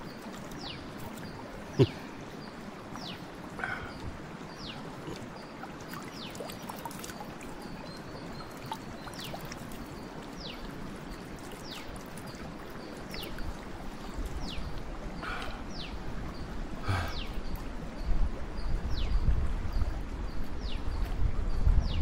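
A bird repeating a short, high whistle that falls in pitch, about once a second, over a steady hiss. There is one sharp knock about two seconds in, and a low rumble comes in during the second half.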